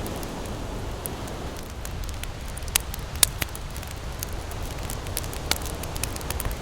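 Wood campfire crackling, with scattered sharp pops, two of them loudest near the middle, over a steady low rush of ocean waves.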